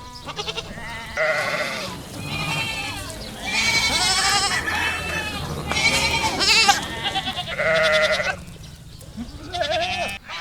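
Goats bleating: a run of about five wavering calls, one after another, with short gaps between them.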